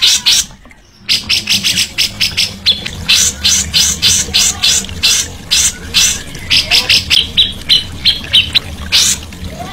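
Songbird singing a fast, harsh chattering song of sharp notes, several a second, with a sudden half-second break about half a second in before it resumes.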